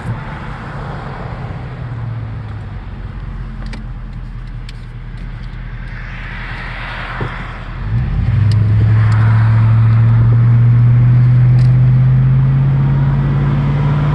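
Vehicle engine and road noise heard from inside the cab. About eight seconds in the engine gets louder and its drone rises slowly in pitch as the vehicle speeds up.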